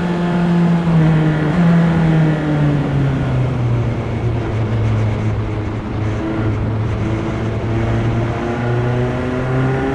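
Single-seater race car engine heard from on board. Its pitch falls over the first few seconds as the car slows, holds low through the middle, then climbs again near the end as it accelerates.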